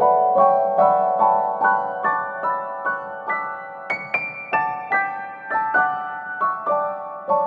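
Piano music: a gentle melody of single struck notes, about two to three a second, climbing to a high note near the middle and then stepping back down.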